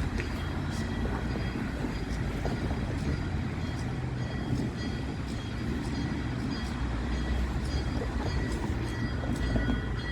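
Passenger train rolling past at low speed: a steady low rumble with scattered clicks of the wheels.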